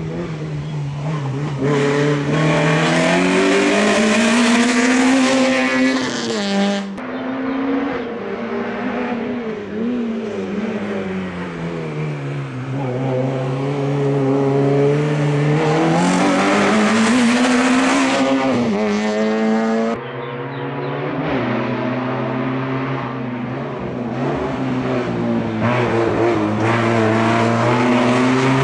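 Car engines on a slalom course revving hard and easing off between cones, the engine note rising and falling again and again. The sound changes abruptly twice, about a quarter and two thirds of the way through, as one car's run gives way to another's.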